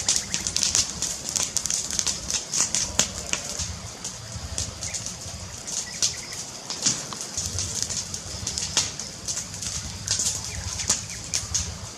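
Wood fire crackling: irregular sharp pops and snaps over a steady hiss and a low, fluttering rumble.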